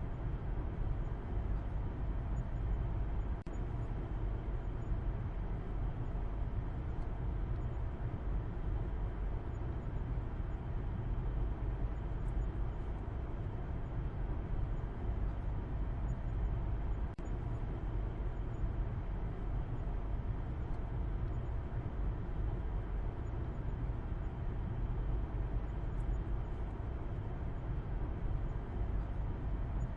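A car driving at an even pace: a steady low rumble of road and engine noise that does not change.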